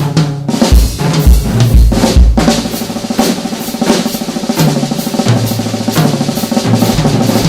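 Jazz drum-kit solo: fast snare strokes and rolls, with bass-drum and low drum hits, played as one dense, continuous passage.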